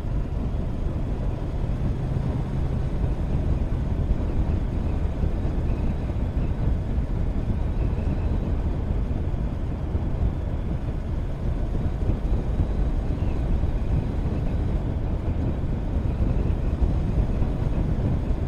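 Motorcycle riding at a steady speed: a steady low rumble of wind over the microphone with the engine running underneath.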